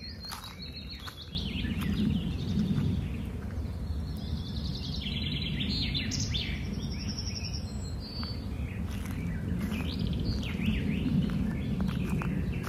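Several birds calling and singing, with chirps and fast trills, busiest around the middle. A steady low rumble comes in about a second in and runs underneath.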